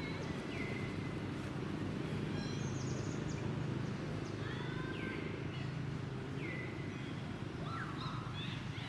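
Scattered short, high-pitched animal chirps, several falling in pitch, over a steady low rumble.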